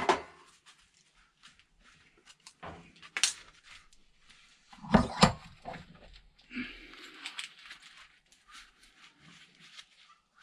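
Scattered knocks and clinks of tools on metal, a few sharp ones about three and five seconds in, with a short hiss around seven seconds.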